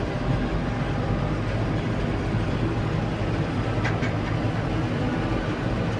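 Steady low drone of heavy farm machinery engines, a tractor and a forage harvester working side by side in maize harvest. A brief faint high-pitched sound about four seconds in.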